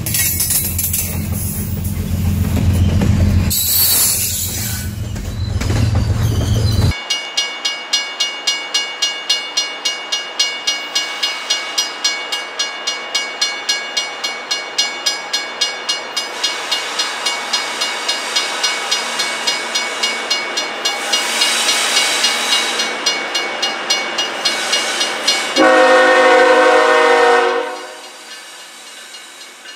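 Loaded freight train passing: a heavy diesel rumble at first, then the cars rolling by with a steady clickety-clack of wheels over rail joints, a few clicks a second. Near the end comes a short blast of a locomotive's multi-chime air horn.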